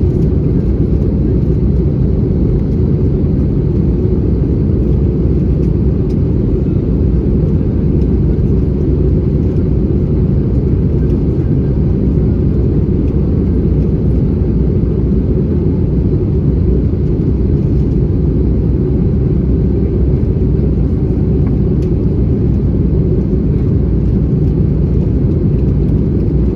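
Airbus A320-214 cabin noise on approach: the engines and the airflow past the fuselage make a steady, low, even roar with no change in level.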